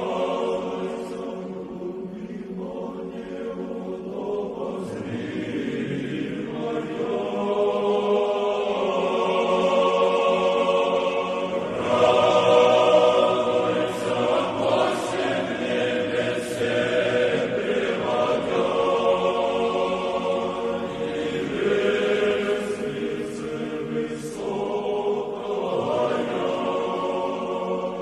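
Choir singing Orthodox church chant in long, held chords that shift every few seconds.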